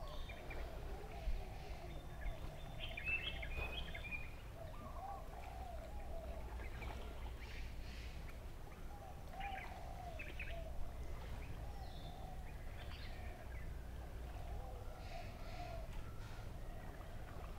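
Birds chirping now and then over a steady low background rumble outdoors.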